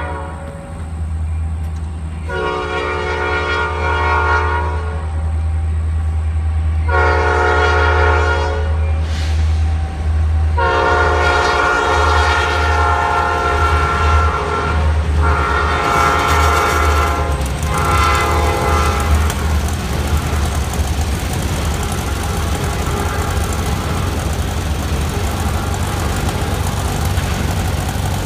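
Diesel freight locomotive's multi-chime air horn sounding a series of long blasts at a railroad diamond crossing, over the steady low rumble of the locomotive. The horn stops about two-thirds of the way through, leaving the steady noise of the train rolling across the rails.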